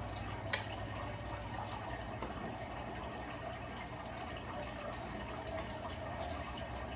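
Steady rushing background noise with a low hum, and a single sharp click about half a second in.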